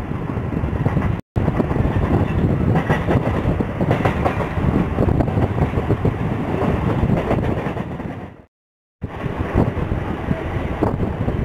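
Mumbai suburban local electric train running on the rails, heard from the open doorway: a steady rumble of wheels with rapid rattling rail clatter. The sound drops out briefly twice, at edits.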